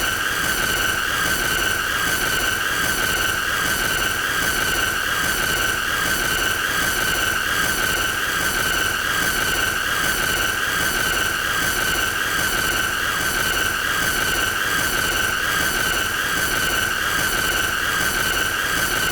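A continuous shrill, high-pitched squealing tone, unchanging in pitch and loudness, with a fast even pulse a few times a second: a deliberately annoying sound played on a loop.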